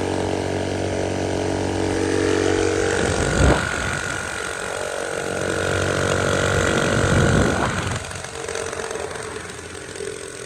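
Mini bike's small single-cylinder engine running steadily, then a higher steady whine with rushing noise from about three seconds in until about eight seconds, when it drops back and quietens.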